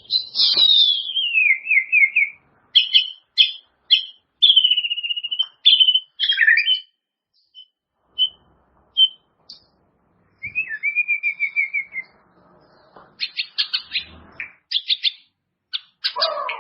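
White-rumped shama singing a varied run of separate phrases: it opens with a falling whistle that runs into a trill, followed by sharp chip notes, clear whistles, a long trill about ten seconds in, and a fast burst of notes near the end, with short pauses between phrases.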